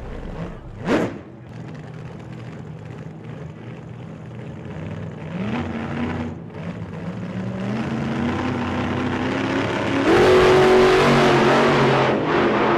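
Car engine revving and accelerating, its pitch climbing in steps as if shifting up through gears, and loudest from about ten seconds in. A short rising whoosh comes about a second in.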